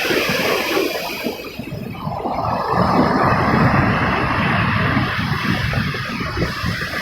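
Ocean waves breaking and washing up the shore, one wash swelling and fading over a few seconds, with wind buffeting the microphone.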